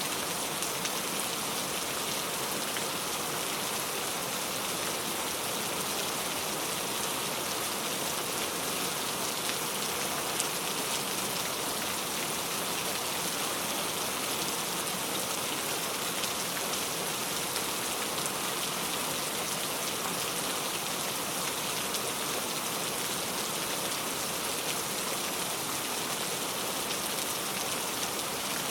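Steady rain falling, a continuous even hiss with faint drop patter throughout.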